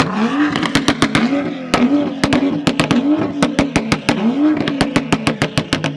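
A performance car's engine revved in repeated short throttle blips, its decatted exhaust firing rapid crackles and pops on each lift-off.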